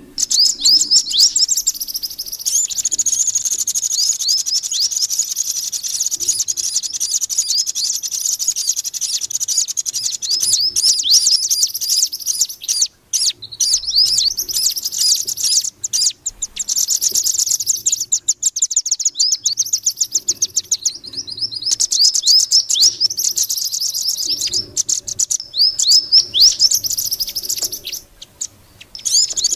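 Bird-lure call track of the mantenan bird mixed with calls of the red-billed nuthatch (rambatan paruh merah): fast, high-pitched chirps repeated in long, dense runs, with a few short breaks.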